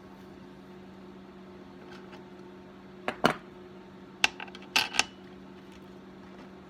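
A few sharp metallic clicks and clinks about three to five seconds in, from hand tools as a thread tap is backed out of a freshly tapped chainsaw bar-stud hole. A steady low electrical hum runs underneath.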